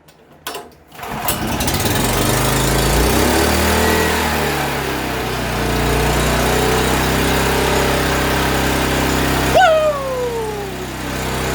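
Honda GX240 single-cylinder engine on a Wacker generator pull-started with the choke on, catching on the first pull about a second in and then running steadily, freshly repaired with a cleaned carburetor. A brief loud falling pitched sound cuts in near the end.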